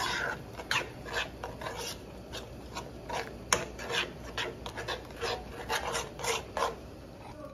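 A utensil scraping and stirring in a cooking pot: a string of short, irregular scraping strokes.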